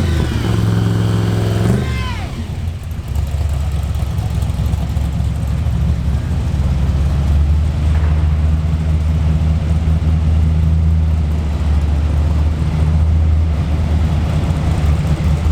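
Supercharged big-block Chevy V8 in a drag car idling with a loud, steady low rumble.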